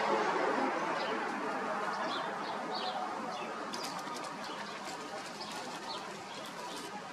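Small birds chirping in short high calls, with a cluster of sharp clicks in the second half, over a steady rushing background that slowly fades.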